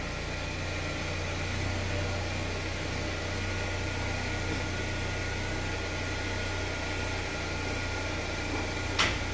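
Car engine idling steadily while the car creeps through a tight enclosed garage: a constant low hum with a faint steady whine above it. A single short click near the end.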